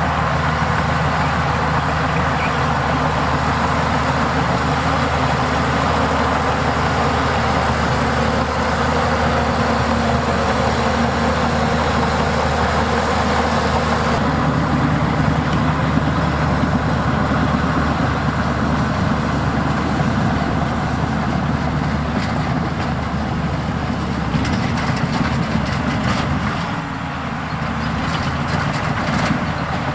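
Diesel engine of heavy earthmoving machinery running steadily, its sound changing about halfway through and dipping briefly near the end.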